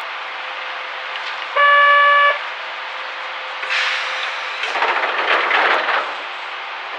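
Inside a Sangi Railway Hokusei Line narrow-gauge train car, over a steady background rumble, a single short signal tone sounds for under a second about one and a half seconds in. Two bursts of rushing noise follow, a short one about four seconds in and a longer one about five to six seconds in.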